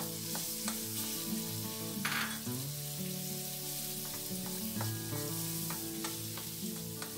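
Sliced ginger sizzling in melted butter in an aluminium wok, stirred with a spatula, with light scrapes and taps of the spatula against the pan. There is a louder sizzle or scrape about two seconds in.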